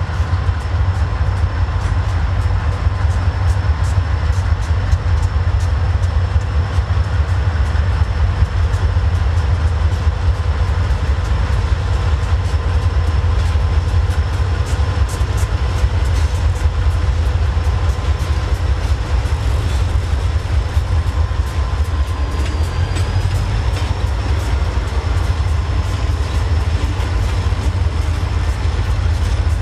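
A string of GE C40-8 diesel-electric locomotives rolling slowly past, their 16-cylinder diesels running with a steady heavy low rumble and a thin high whine that dips briefly about two-thirds of the way through. Wheels click irregularly over rail joints.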